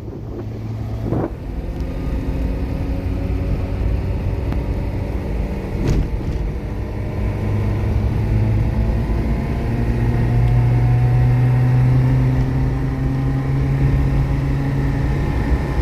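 A motor vehicle's engine running with a steady low hum. It grows gradually louder and rises slightly in pitch, with a couple of brief knocks early on and about six seconds in.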